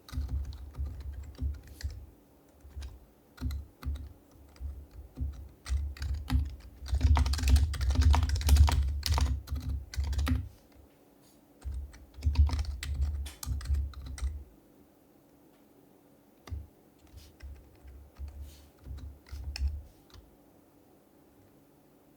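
Typing on an HHKB Professional HYBRID Type-S keyboard, its silenced Topre switches giving soft keystrokes. A dense run of fast typing comes in the middle, then a short burst after a pause, then a few scattered presses that stop near the end.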